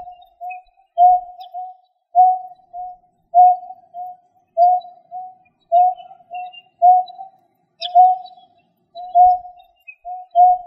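Recorded bird call used as a hunting lure: a low two-note call repeated steadily about every 1.2 seconds, each time a louder note followed by a softer one. A few faint, high chirps sound now and then.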